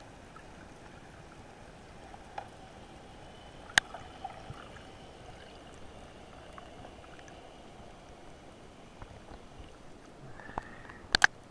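Underwater sea ambience recorded on a diver's camera: a steady hiss with scattered faint crackles and clicks. One sharp click comes about 4 s in, and two sharper, louder clicks in quick succession come near the end.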